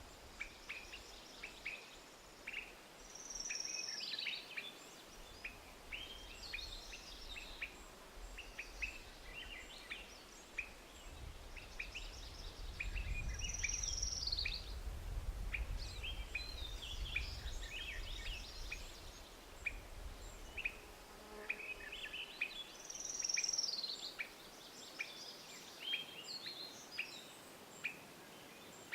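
Small birds chirping with many short, quick calls. A descending song phrase comes three times, about ten seconds apart. A low rumble swells up in the middle and fades again.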